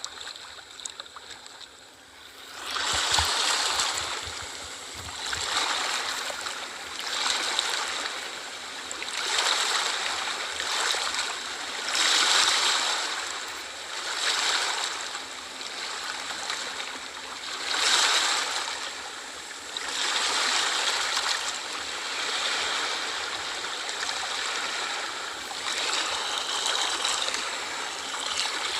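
Small sea waves lapping and washing in, a hiss of water that swells and falls back every two to three seconds, beginning after a quieter first two seconds.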